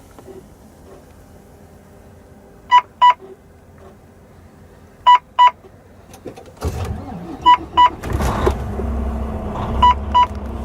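A truck dash warning chime beeping in pairs, four double beeps about every two and a half seconds. Partway through, the Volvo D16 inline-six diesel cranks on the starter, catches and settles into a steady idle.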